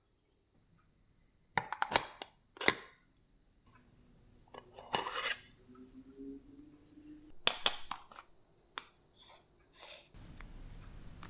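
Clinks and knocks of kitchen bowls and utensils in several short clusters, loudest about two and about seven seconds in, over a steady chirping of crickets. A soft even rushing noise comes in near the end.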